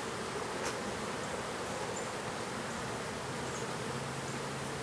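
Honeybees from an opened colony buzzing steadily, the massed hum of many bees flying around comb that has been cut out and shaken. A steady lower hum joins near the end.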